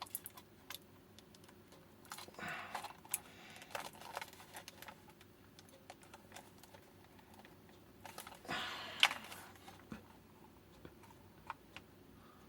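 Hard plastic battery case being pressed and worked together by hand, with scattered light clicks and knocks. Two brief scraping rubs of plastic on plastic come through, the louder about eight and a half seconds in, as the lid catches and will not seat.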